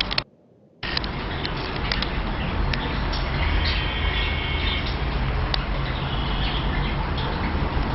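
Ceiling fan running with a steady whir and low hum; the sound cuts out for about half a second right at the start. Bird chirps sound faintly in the background around the middle.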